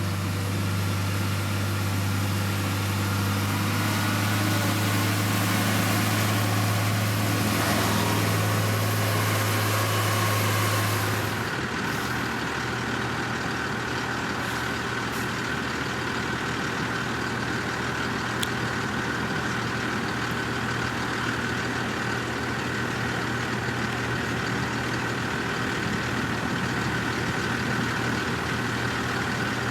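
Heavy diesel construction machine engine running steadily with a strong low hum. About eleven seconds in, the sound changes abruptly to a different, rougher engine note with a faint whine over it.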